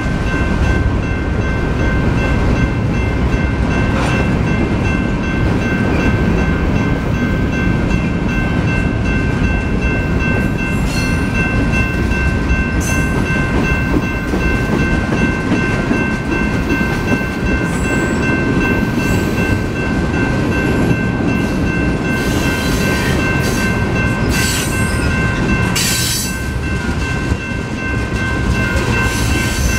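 Mixed freight train of covered hoppers and tank cars rolling past, its steel wheels rumbling and clattering on the rails. A steady high ringing tone runs over it, with a few brief high squeals about a third of the way in and again near the end.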